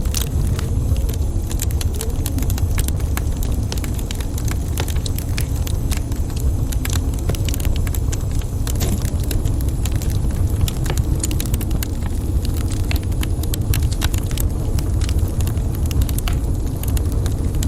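Wood fire burning in a fireplace: many small crackles and pops over a steady low rumble.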